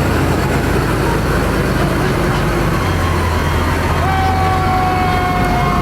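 Fire truck engines running in a steady low rumble; about four seconds in a siren starts, one held tone that slowly sinks in pitch.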